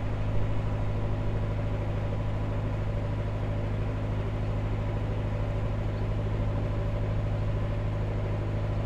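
A narrowboat's inboard diesel engine running steadily at low revs, a constant low hum with an even rapid throb.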